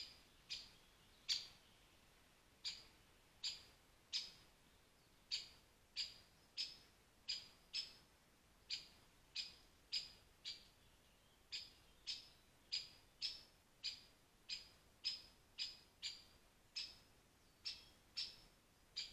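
Pied flycatcher giving a short, sharp, high call over and over, at an uneven pace of roughly one to two calls a second.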